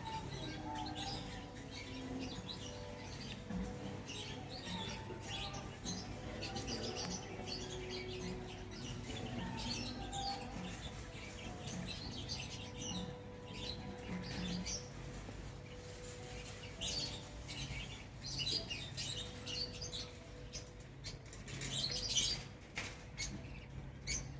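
Small birds chirping with many short, high calls, over a faint steady hum.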